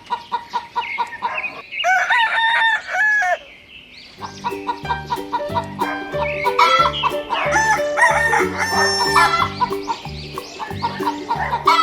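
Rooster crowing about two seconds in, with chicken clucking calls later, over background music with a steady beat.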